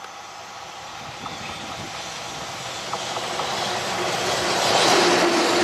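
EF210 electric freight locomotive approaching and passing close by, its running noise on the rails growing steadily louder to a peak near the end. There are a couple of sharp clicks in the first three seconds, and a steady hum joins as the locomotive draws level.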